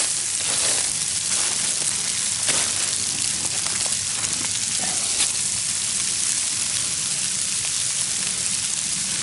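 Steady hiss of a sleet and rain mix falling, with a few faint crackles.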